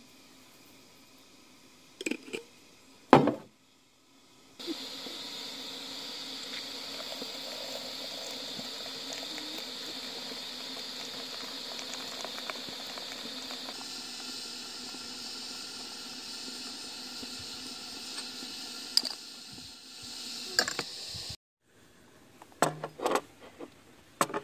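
Water running or bubbling with a steady hiss for about seventeen seconds, then cutting off suddenly. It is framed by a few sharp clinks and knocks before it and near the end.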